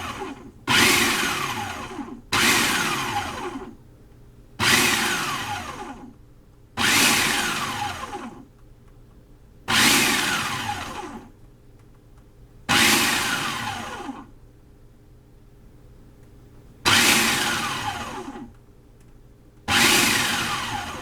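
Food processor pulsed over and over, about eight short bursts. Each burst starts suddenly and dies away falling in pitch as the blade spins down. It is whipping tahini and lemon juice, the first step of hummus.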